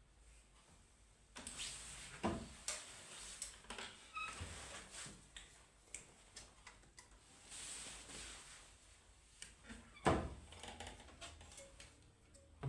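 Handling noises: a string of knocks, clicks and scrapes as objects are moved about, beginning about a second and a half in, with the loudest knocks about two seconds in and about ten seconds in.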